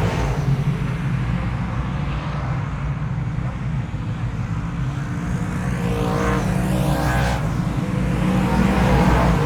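Motor vehicle engine running steadily with a low hum, swelling and rising in pitch about six to seven seconds in and growing a little louder near the end.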